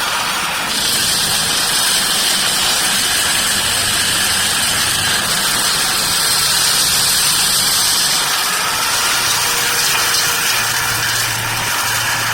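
An engine running steadily, with a low hum under a constant high hiss.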